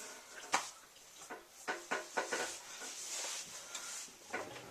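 Handling noises: one sharp click about half a second in, then a few light knocks and a soft rubbing, brushing sound.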